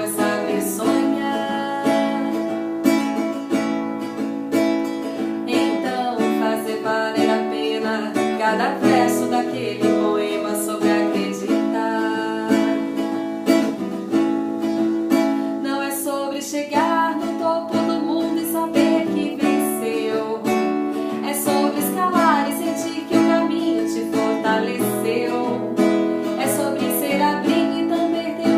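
Acoustic guitar playing a melody with chords, plucked notes sounding continuously.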